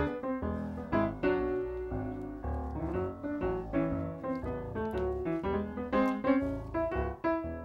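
Background piano music: a melody of struck notes over low bass notes at an even, moderate pace.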